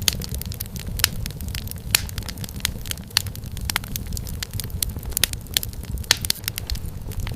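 Wood fire crackling in a fireplace: many sharp, irregular pops and snaps over a low, steady rumble of flame.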